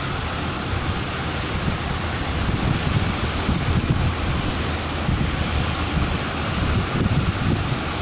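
Strong wind buffeting the microphone with a low, irregular rumble, over the steady wash of breaking surf.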